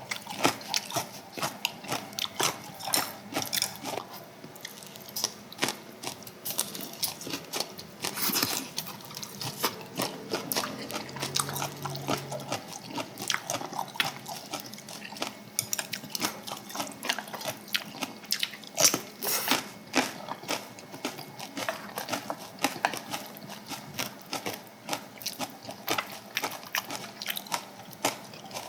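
Close-up eating sounds from people eating samgyetang with kimchi: chewing and biting, wet mouth smacks and many small irregular clicks, with a brief low hum about eleven seconds in.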